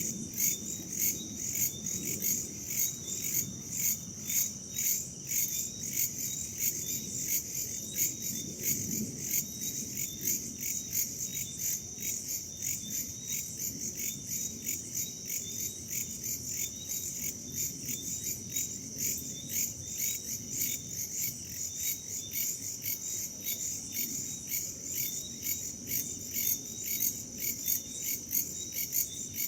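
A chorus of crickets and other forest insects chirping steadily in quick, even pulses, several a second, over a soft low rumble of wind.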